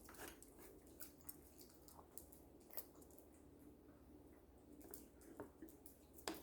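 Very quiet, scattered wet clicks and smacks of a baby eating and chewing.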